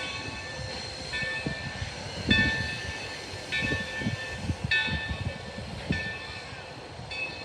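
A bell ringing in a slow, even rhythm, about once every 1.2 seconds, over the rumble of a train with scattered low knocks.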